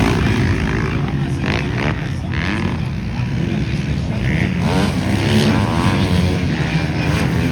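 Motocross bike engines running and revving, their pitch rising and falling as the bikes race round the track.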